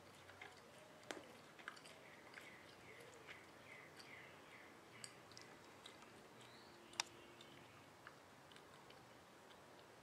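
Near silence, with a faint run of short, high chirps from a distant small bird, followed by scattered soft clicks, one sharper than the rest about two-thirds of the way through.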